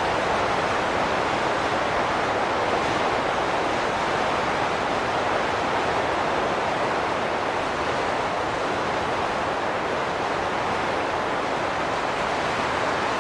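Wind blowing steadily, an even rushing noise with no gusts, breaks or whistling tones.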